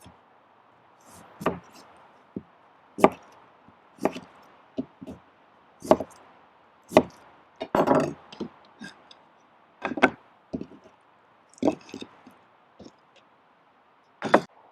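A dozen or so separate chopping strikes against wood, irregular and roughly one a second, some of them louder than others.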